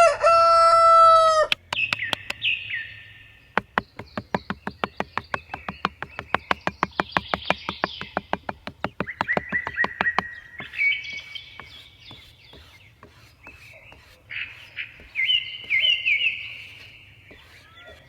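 A rooster's crow ending in the first second and a half, then small birds chirping and trilling. From about 3.5 to 10 seconds in, a fast run of sharp taps comes about five times a second.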